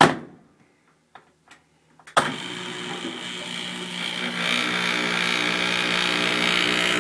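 Drain pump of a Kenmore 417.40142000 front-load washer starting up with a sudden loud buzzing hum after a few light clicks, growing louder and then holding steady. It is the vibration buzz of the pump shaking on its rubber mount, which stops when pressure is put on the pump.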